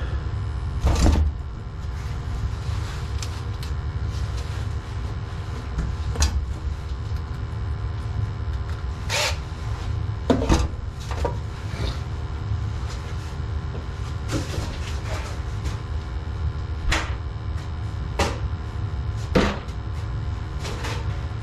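Gas water heater burners firing: a steady low rumble with a faint steady hum. Sharp knocks and clicks come at irregular times, about nine in all.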